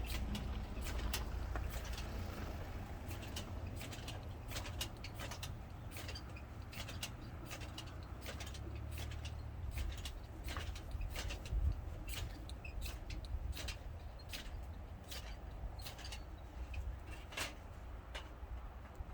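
Campfire crackling, with irregular sharp pops and snaps, over a steady low rumble.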